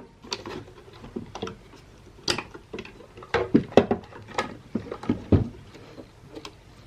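Hands handling the parts of a defibrillator under teardown: a string of irregular clicks and knocks, plastic and metal parts being moved and set down on the bench.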